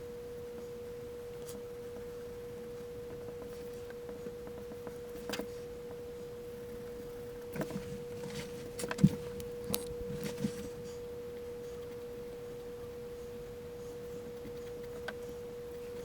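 A steady tone held at one pitch, with a few faint clicks and light knocks in the middle.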